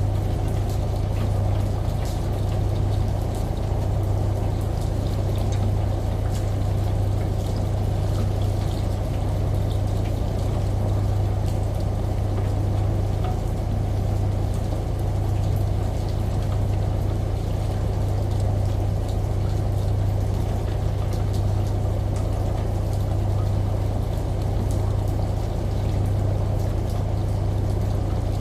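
Washing machine running with a steady low hum, layered with the even hiss of a running shower and rain, and scattered small drips.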